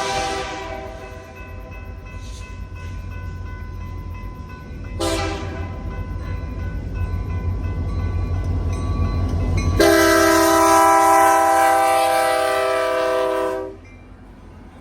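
Diesel locomotive air horn sounding as a chord of several tones. A blast fades out in the opening half-second, a short blast comes about five seconds in, and a long blast of about four seconds starts near ten seconds, the loudest part. The low rumble of the approaching locomotive grows louder underneath.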